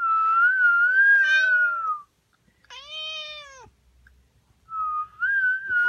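A person whistling a wavering tune in two stretches, and between them a cat meowing once, with a short meow also over the first stretch of whistling. The cat is meowing in protest at the whistling.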